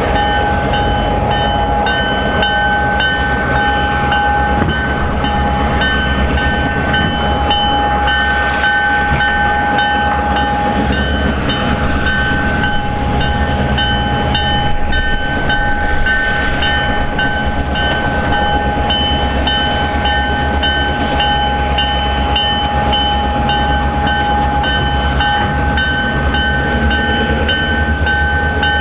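Freight train passing steadily, a low rumble of locomotives and cars with steady high ringing tones above it throughout.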